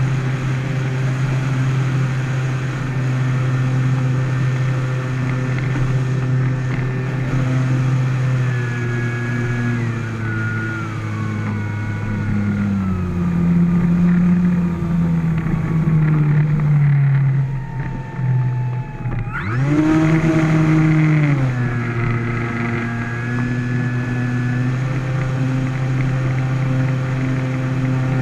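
Electric motor and propeller of a Carbon-Z Cub RC plane running in flight, a steady pitched whine that changes with the throttle. The pitch slides down about halfway through, drops low briefly, then rises sharply about two-thirds of the way in before settling back to a steady note.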